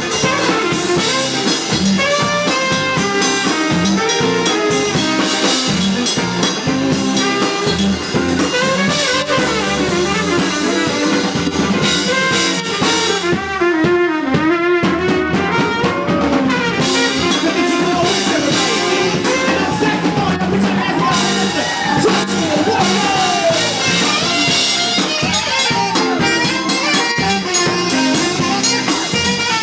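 Live blues band playing an instrumental stretch with horns over a drum kit, the lead lines bending in pitch.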